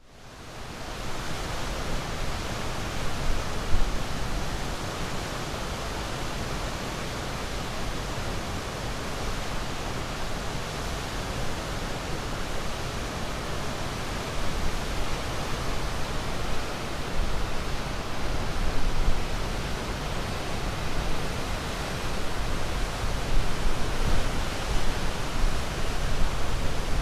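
Steady rushing water, a continuous even hiss with no distinct wave surges, fading in over the first second or two.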